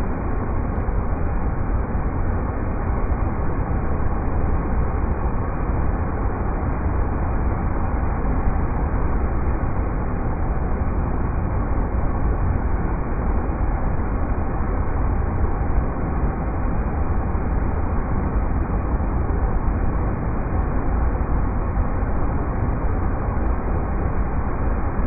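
River rapids rushing, a deep, steady rumble with no change or break.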